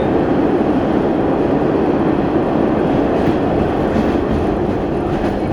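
MBTA Orange Line subway train running along the track, heard from inside the car: a steady, loud noise of wheels on the rails.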